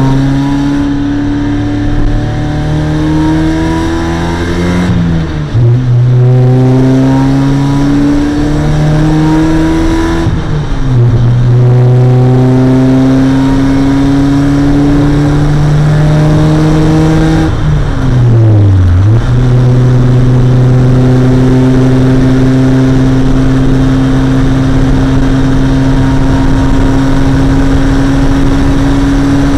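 Mazda MX-5's 1.6-litre four-cylinder engine pulling hard through the gears. Its note climbs and drops sharply at upshifts about 5 and 10 seconds in, dips and recovers once more after about 18 seconds, then holds a steady high pitch, over a hiss of road and wind noise.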